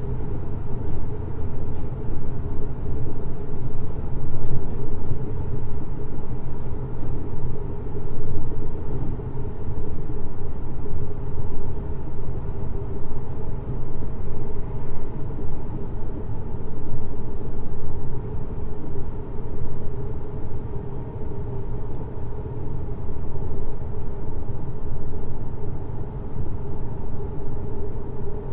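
Running sound of a JR Hokkaido 733 series 3100-subseries electric train, heard from inside the car at steady speed: a continuous low rumble of wheels on rail with a steady hum over it.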